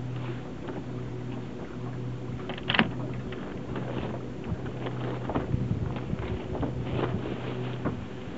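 Sounds aboard a small sailboat under way on a lake: a steady low hum with irregular splashes and knocks. The loudest is a sharp knock nearly three seconds in.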